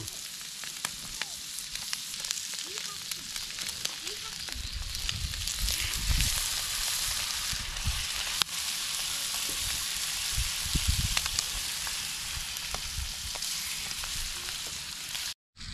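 Eggs, potatoes, sausage and catfish fillets sizzling in butter on a griddle pan over a campfire, a steady hiss. The sizzle grows louder about five seconds in as the raw catfish fillets go onto the hot pan, with a few light clicks of handling.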